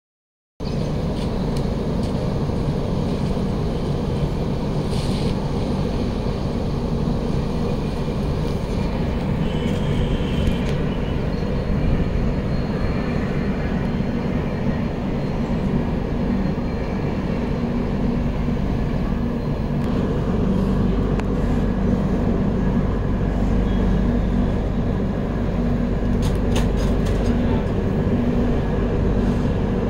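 Passenger train running, heard from the open door of a moving coach: a steady rumble of wheels on rail.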